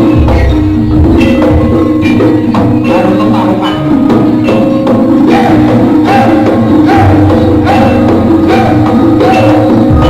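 Live jaranan gamelan music: struck gongs and metallophones with drums playing a dense, steady rhythmic pattern.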